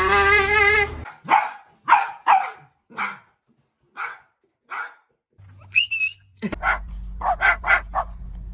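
Dog barking in short repeated barks, spaced out at first. After about six seconds the barking comes quicker, around three barks a second, over a low steady hum.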